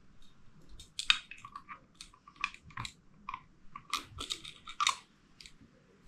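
Light clicks and scrapes of small carburettor parts being handled and fitted during reassembly, in an irregular cluster from about one second in to about five seconds in.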